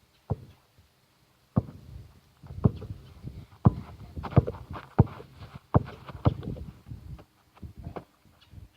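A basketball being dribbled, bouncing on a hard court with sharp thuds at an uneven pace of about one or two a second.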